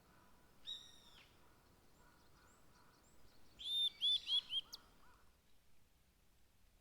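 Wild songbirds calling in a forest. There is a single short call about a second in, then a quick run of four or five loud chirps about four seconds in, over a faint background hiss.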